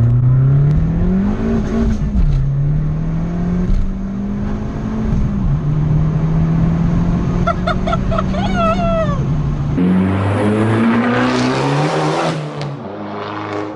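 Turbocharged 1.4-litre four-cylinder of a 250 bhp Abarth 595 with a bigger turbo, heard from inside the cabin under hard acceleration: the engine note climbs, drops at each gear change and climbs again. A loud rushing hiss comes in about ten seconds in while it pulls.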